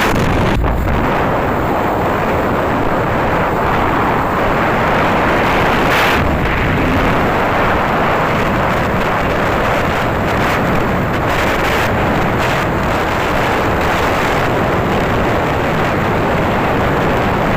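Loud, steady rushing and rumbling of wind buffeting the microphone.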